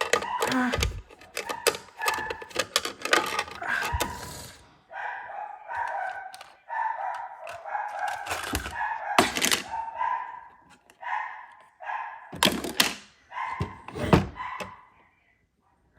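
Dishes clattering and knocking as plates go into a dishwasher rack: a run of quick clinks and knocks, then a couple of heavier thunks near the end. Repeated short, high whining cries sound between the knocks.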